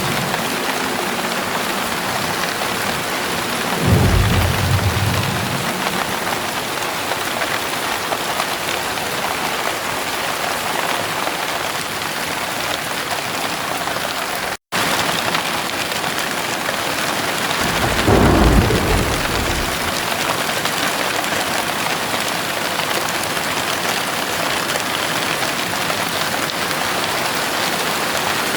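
Heavy rain pouring steadily, with two short low rolls of thunder, about four seconds in and again around eighteen seconds. Midway the sound cuts out for a split second.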